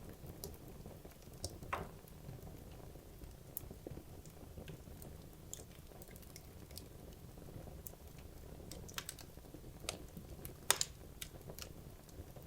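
Wood logs burning in a fireplace: a steady low rush of flame with irregular sharp crackles and pops, the loudest pop about eleven seconds in.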